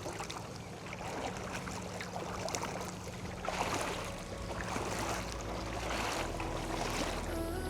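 Legs wading through shin-deep water, sloshing and splashing about once a second with each step. Background music fades in near the end.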